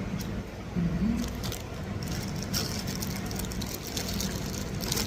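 Steady low background hum with many light clicks and clinks, like spoons and chopsticks on bowls, growing busier about two seconds in.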